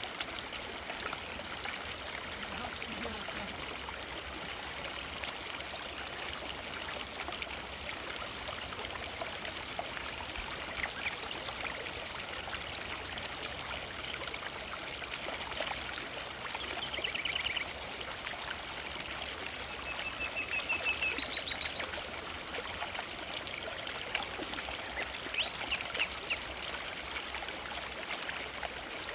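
Forest river flowing steadily, a constant rush of water. Short high bird calls break in a few times over it.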